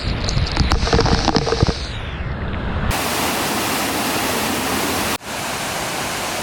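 Sgwd yr Eira waterfall, heard close up: a steady, even rush of falling water. The first two seconds have irregular knocks and rumbles over the rush, from the microphone being jostled or buffeted.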